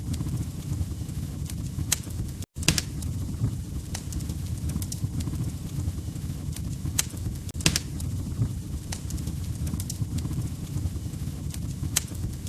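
Wood fire crackling in a fireplace: a steady low rumble of burning logs with irregular sharp pops and snaps. The sound cuts out for an instant about two and a half seconds in.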